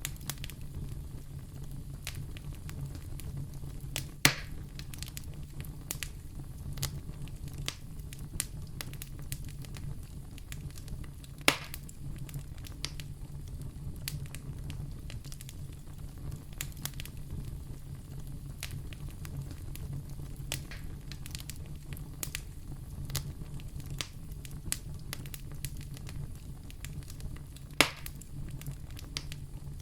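Wood fire burning in a fireplace, crackling continuously over a steady low hum, with three louder sharp pops, the last near the end.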